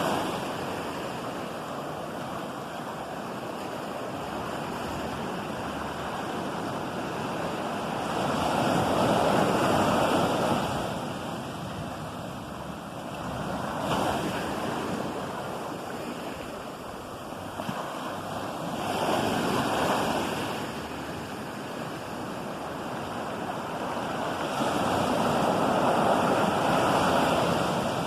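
Ocean waves breaking and washing ashore, the surf swelling and easing every five or six seconds, with some wind on the microphone.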